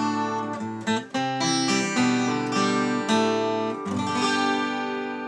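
Acoustic guitar strummed, a chord about once a second, each chord left to ring.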